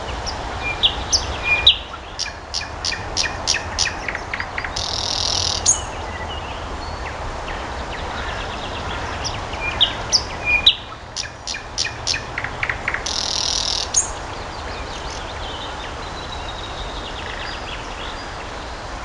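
Songbirds singing. One phrase is heard twice, about nine seconds apart: a few short high notes, a run of quick repeated notes, then a buzzy high note about a second long, over a steady background hiss.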